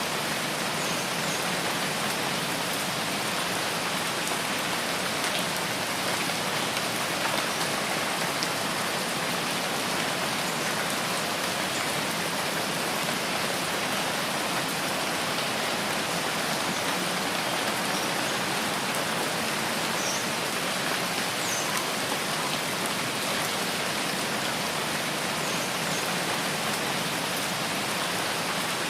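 Steady, even rainfall in a rain forest, with a few faint high chirps about twenty seconds in.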